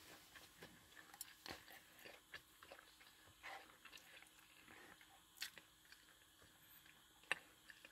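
Faint eating sounds, with soft chewing and scattered small mouth and utensil clicks. Two sharper clicks come about five and a half and seven seconds in.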